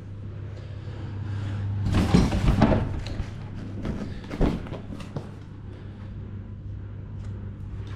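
Hard plastic clatter and sharp clicks from the Shark upright vacuum being handled, with a loud rustling scrape about two seconds in and a few knocks over the next few seconds, over a steady low hum.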